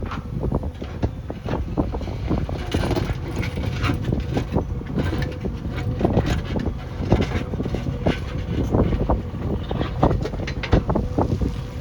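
JCB backhoe loader's diesel engine running steadily as a low rumble with a steady hum, with irregular short knocks and clanks over it.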